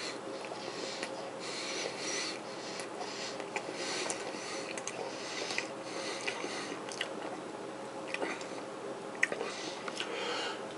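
A person chewing a mouthful of smoked-sausage sandwich up close, with small wet mouth clicks and soft crunches scattered through, over a faint steady hum.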